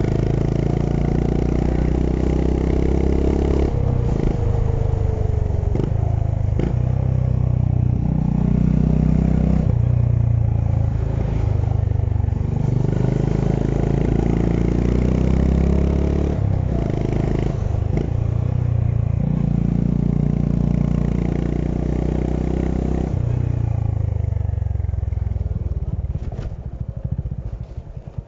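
Honda H'ness CB350's single-cylinder engine under way, its pitch rising and falling with throttle and breaking off briefly at several gear changes. Near the end it eases off to a low, slow pulsing as the bike slows.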